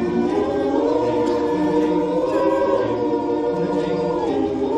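Barbershop chorus singing a cappella in close harmony, holding sustained chords that change a couple of times without clear words.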